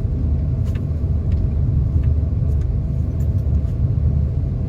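Inside a moving Thai sleeper train carriage: the steady low rumble of the train running, with faint clicks and rattles now and then.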